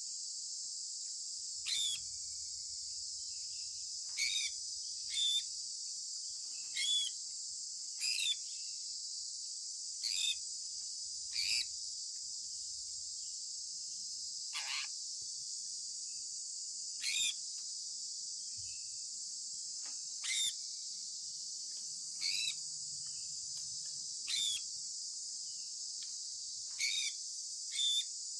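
Sun conure giving short, sharp chirps that fall in pitch, repeated irregularly every one to three seconds, over a steady high-pitched drone.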